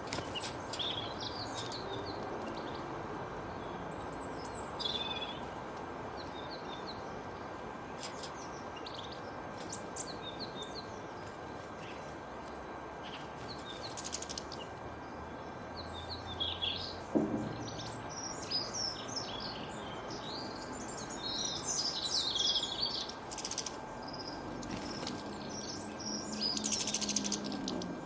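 Wild birds chirping and calling, many short calls throughout over a steady background hiss. There is a single low thud about two-thirds of the way through.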